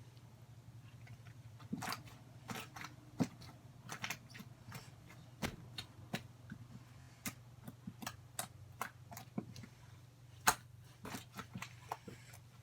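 Slime being squished and worked by hand, making irregular sticky clicks and pops, with a faint steady low hum underneath.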